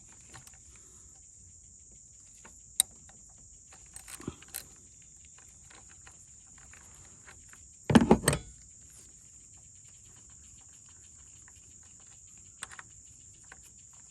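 Scattered light clicks and knocks of hand tools and parts on the engine, with one louder clunk about eight seconds in. Crickets trill steadily in the background.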